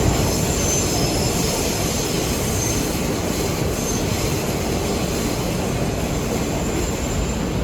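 NYC subway J train car running along the track, heard from inside the car as a steady rumble. A faint high whine sits over it for the first few seconds.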